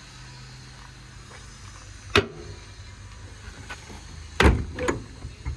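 The truck's V10 engine runs with a steady low hum that dies away about two seconds in. A sharp click follows, then two heavy thumps near the end.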